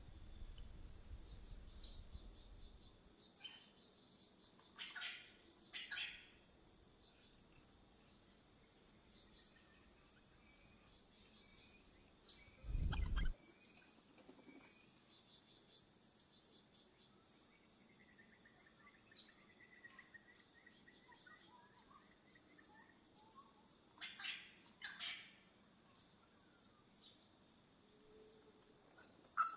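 Wild birds calling: a high chirp repeated evenly about three times a second throughout, with a few louder, lower calls now and then. A single dull thump about halfway through.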